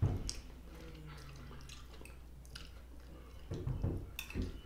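A man chewing a mouthful of sausage and pepper stir-fry, with scattered wet mouth clicks and smacks that cluster a little before the end.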